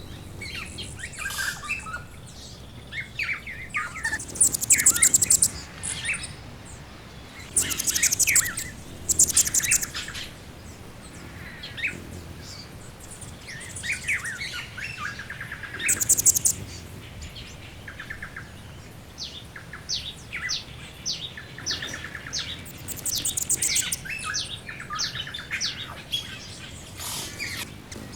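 Several songbirds calling over one another: scattered chirps and whistled notes, with a rapid high buzzy trill, about a second long, coming in again and again.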